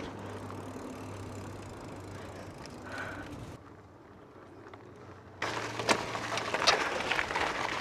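Riding noise from a moving bicycle: steady tyre and wind noise with a low hum, which drops quieter about three and a half seconds in. At about five and a half seconds it turns louder, with rapid clicks and rattles.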